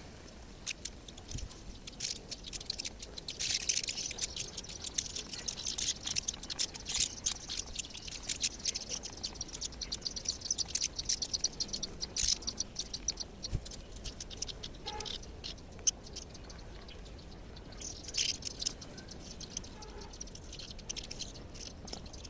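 Many small birds chirping in quick, overlapping calls. The calls are busiest through the first half and again briefly near the end.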